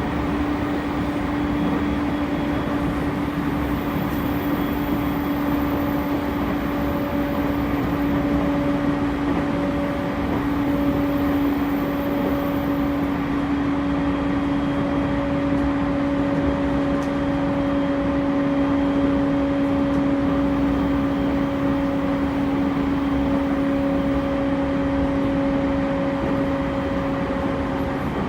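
JR East E231 series electric train running at a steady speed on the Joban Line, heard from on board: a continuous rumble of wheels on rail with a steady, unchanging whine from the drive.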